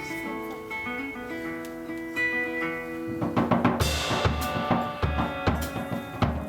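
A live band plays the opening of a song, with no singing. Held guitar notes ring alone at first, then a drum kit comes in about three seconds in with a steady kick-and-snare beat and cymbals.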